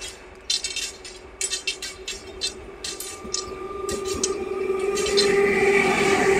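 Electric suburban local train (EMU) approaching and passing close by on the adjacent track. Its steady electric hum and the running noise of the wheels grow louder from about four seconds in and peak near the end as the train draws level.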